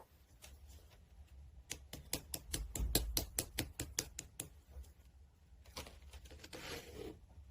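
Light, sharp clicks: a few spaced ones, then a quick run of about seven a second for nearly three seconds, followed by two softer rustling swishes near the end.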